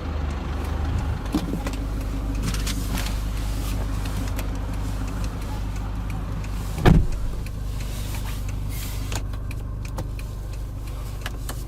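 Steady low hum of the Toyota Land Cruiser Prado's cabin, with the engine idling, and scattered light clicks as dashboard and steering-wheel buttons are pressed. One louder thump comes about seven seconds in.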